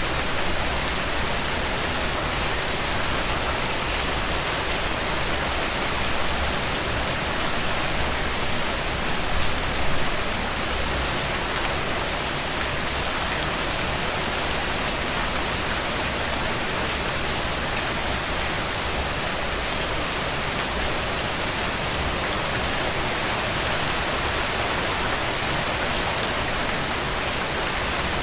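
Steady rain falling on a tent, an even hiss with scattered sharp ticks of drops, briefly a little louder about ten seconds in.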